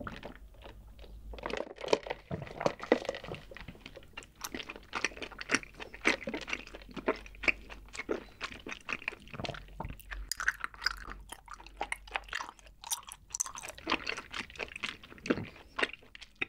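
Close-miked sipping of milk tea through a wide straw, then chewing with the mouth closed: a dense run of small wet clicks and squishes.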